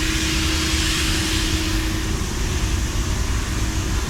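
Steady machine noise at a car wash: an even hiss and low rumble with a constant hum, which fades slightly about halfway through.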